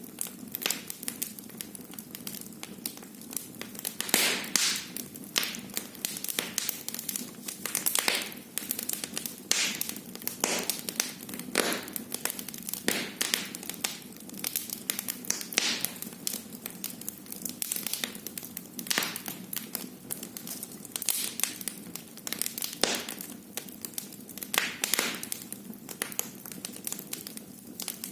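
Wood fire burning in a fireplace, crackling and popping irregularly over a low steady hiss of the flames.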